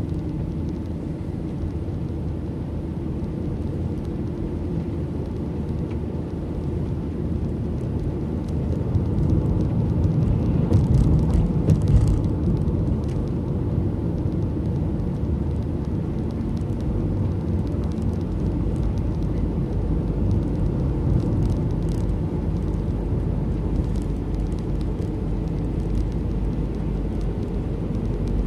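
Road noise of a moving car heard from inside the cabin: a steady low rumble of engine and tyres. It grows louder for a few seconds about a third of the way in, with a few short knocks as the car goes over rough road.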